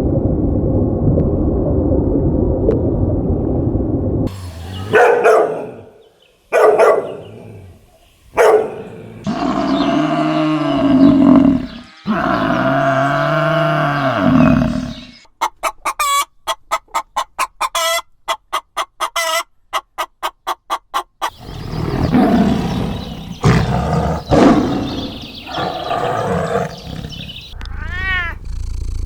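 A run of different animal sounds, one short clip after another: a steady low rumble, several pitched calls, a fast run of even clicks, and rising-and-falling high calls near the end.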